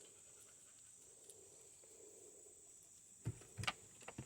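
Quiet woodland with a faint steady high whine; about three seconds in, a few crunching steps and thumps in dry leaf litter.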